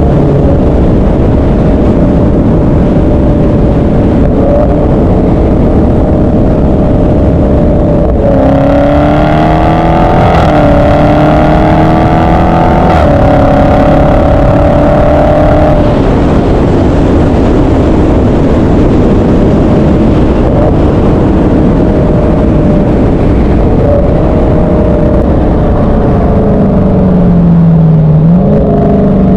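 Loud muscle-car engine noise, with one car accelerating hard through the gears about a third of the way in, its note climbing and dropping back at two shifts before holding for a few seconds. Near the end another engine revs up and down.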